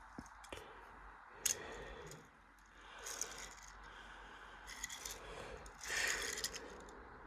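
Year 2000 Bridgestone Altus Newing washing machine in its wash phase: water and clothes swishing in the drum in several bursts, the loudest about six seconds in, with a few sharp clicks.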